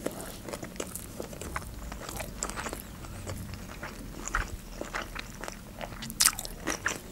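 Chewing a mouthful of California roll sushi: a run of short clicks and crunches, the loudest about six seconds in.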